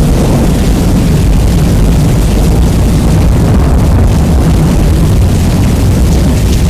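Rain recording heavily bass-boosted and overdriven, a loud, steady, distorted low rumble with the hiss of the rain above it.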